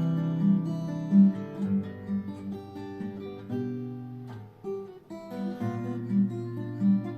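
Steel-string acoustic guitar, a multiscale orchestra-model cutaway, being fingerpicked: plucked notes over a ringing bass line, with a brief lull about five seconds in before the playing picks up again.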